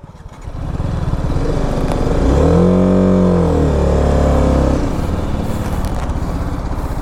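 BMW G 310 RR's single-cylinder engine running. It picks up over the first second, rises in pitch and falls back about two to five seconds in, then runs on steadily.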